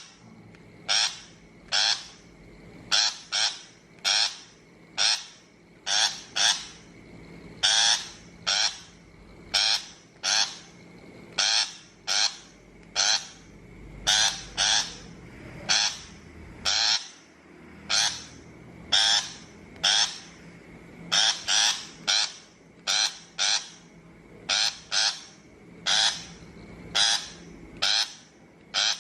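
Shrike giving short, harsh calls over and over, about one or two a second and often in quick pairs, with a faint steady high tone underneath.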